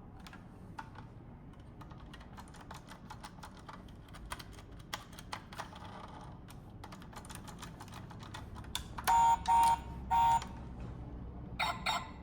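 A run of quick light clicks and taps, like keys being typed. Then three short loud beeps with a clear pitch, close together, and a brief louder clatter near the end.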